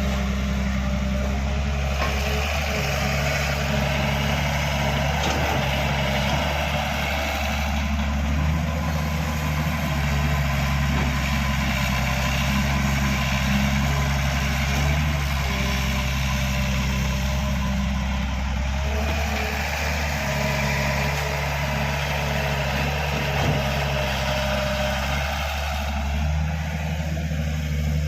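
Diesel engines of a JCB backhoe loader and a Sonalika DI 750 tractor running steadily at low speed during loading, with an even engine note that swells and eases slightly now and then.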